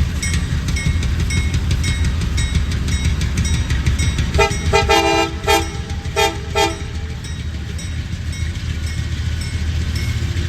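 Diesel locomotive horn sounding a few blasts over about two seconds, starting about four seconds in, over a steady low rumble.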